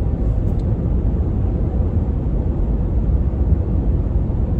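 Steady low rumble of a truck driving at road speed, engine and tyre noise heard from inside the cab.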